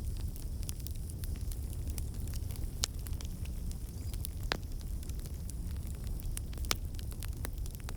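Fireplace fire crackling: a steady low rumble of burning with scattered sharp pops and snaps. The loudest pops come about three seconds in, midway, and near the end.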